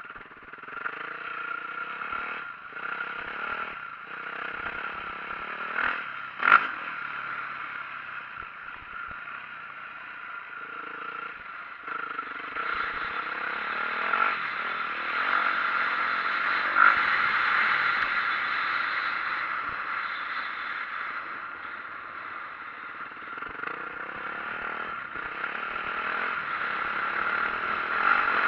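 2004 Yamaha YZ450F four-stroke single-cylinder dirt bike engine running under a rider, rising and falling with the throttle, over a steady rushing noise. Sharp knocks about six and a half and seventeen seconds in.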